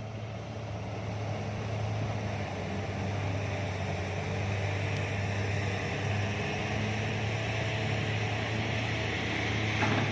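Heavy diesel engines of an excavator and a dump truck running during loading, a steady low drone that swells over the first couple of seconds and then holds.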